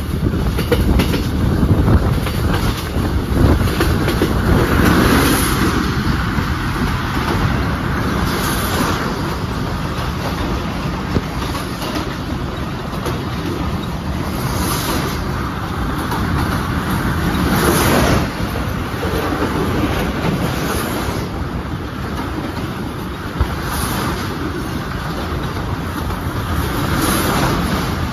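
Passenger train heard from aboard, running along the track and out across a steel truss bridge: a steady rumble of wheels on rails, with a sharp clack every few seconds as the wheels pass over rail joints.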